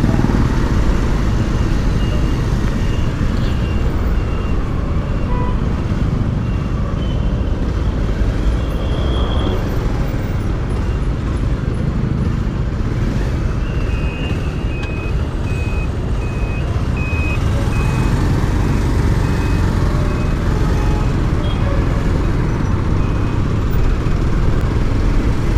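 Motorcycle ride through city traffic: steady low rumble of engine and wind on the microphone. From about halfway through, a thin electronic beep repeats about one and a half times a second for some ten seconds.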